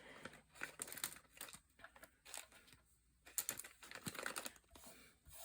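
Paper and small craft supplies being handled and moved on a table: rustling with irregular bursts of light clicks and taps.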